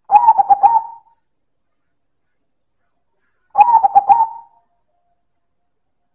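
Silver zebra dove (perkutut) giving its cooing song twice: each a loud phrase of about a second of quick repeated coos, the second starting about three and a half seconds after the first.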